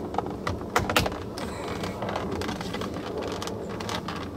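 A few sharp plastic clicks and knocks, the loudest about a second in, as the car's door trim panel is pressed back onto the door, over a steady low background rumble.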